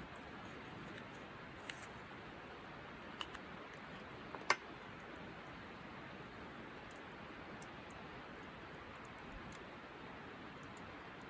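Quiet wood campfire with a few sharp crackles and pops over a steady faint hiss, the loudest pop about four and a half seconds in.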